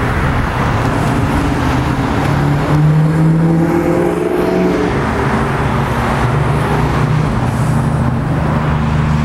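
2011 Kawasaki Versys's 650cc liquid-cooled parallel-twin engine idling steadily, picking up a little in speed and level about three to four seconds in before settling back.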